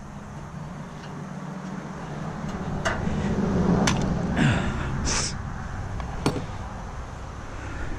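Hand tools working on a steamer's metal fittings: a few sharp clicks and short scraping sounds over a steady low hum.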